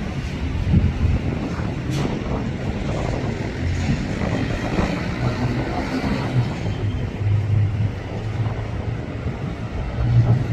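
Steady low engine rumble with a hum that comes and goes, and a single sharp click about two seconds in.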